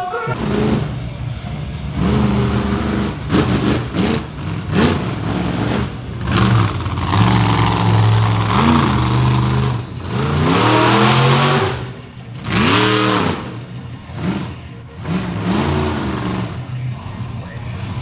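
Monster truck engine revving hard again and again, its pitch swooping up and falling back several times with short drops in between.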